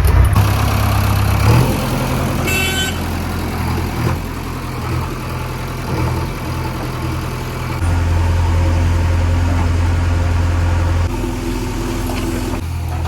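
Heavy diesel machinery engine running steadily, growing louder about eight seconds in and easing back about three seconds later. A brief high-pitched squeal about two and a half seconds in.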